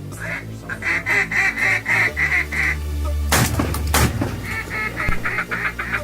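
Rapid runs of duck quacking, several calls a second, that break off before the middle and start again after it. A short noisy rush comes just past the middle, over a steady low background of music.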